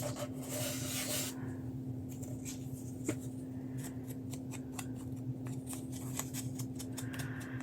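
Paper and craft pieces being handled on a desk: a rustle lasting about a second near the start, then scattered light clicks and taps, over a steady low hum.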